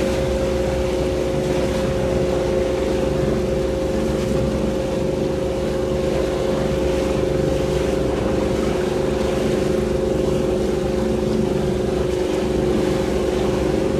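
Motorboat engine running steadily at constant speed, a loud even hum with some wind and water noise.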